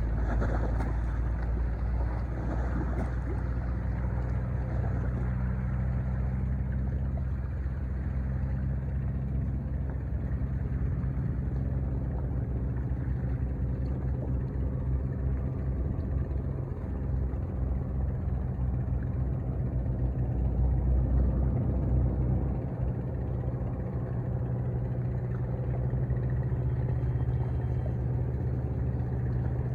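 Ship's engine running with a steady low drone, several steady low tones over a rumbling haze, swelling a little about two-thirds of the way through.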